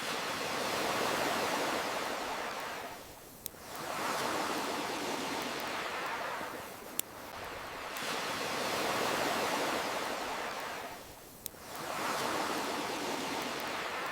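Ocean waves washing in and drawing back in slow swells, about one every four seconds, with a brief lull between each. A single sharp pop falls in each lull.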